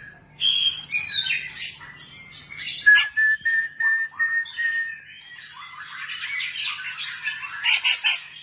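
White-rumped shama singing a varied run of whistled phrases and pitch glides, with one long held whistle in the middle and a quick series of sharp notes near the end.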